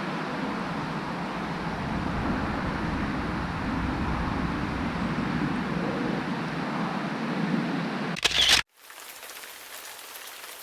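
Steady rush of wind and rain noise on the microphone. About eight seconds in comes a loud brief handling knock, the sound cuts out, and then softer, even rain patter follows.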